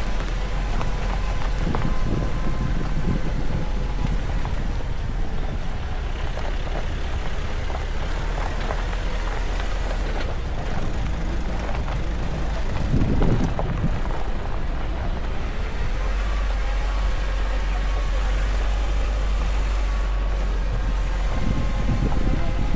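Nissan Navara pickup driving downhill: steady engine and road rumble with a faint steady whine, swelling briefly about 13 seconds in.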